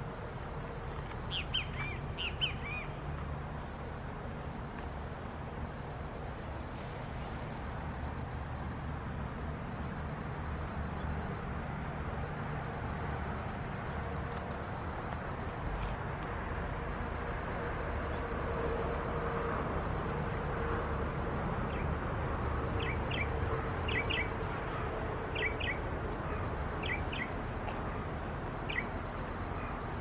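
Small birds chirping in short bursts and quick high trills, over a steady low rumble that slowly grows louder toward the last third.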